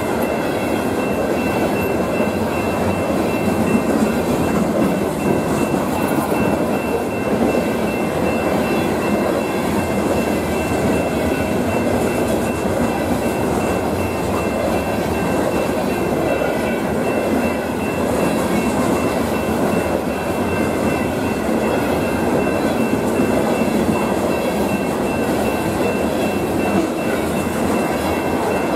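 Covered hopper cars of a Union Pacific grain train rolling past at speed: a steady, loud rumble of wheels on rail, with a thin high steady tone running over it.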